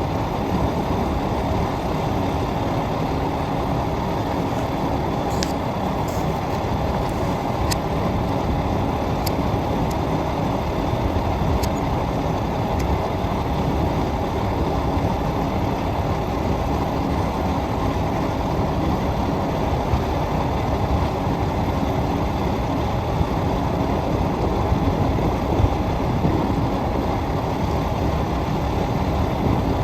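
Water truck's engine running steadily, a continuous low rumble, with a few faint clicks in the first half.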